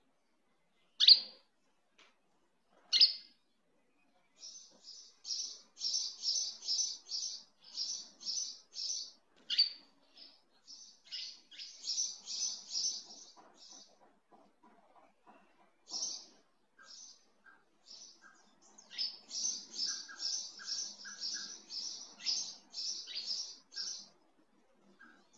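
Small bird chirping: fast runs of short high chirps, several a second, broken by a few sharp downward-sweeping calls.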